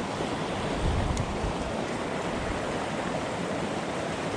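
Small mountain creek flowing, a steady rush of water, with a single faint tick about a second in.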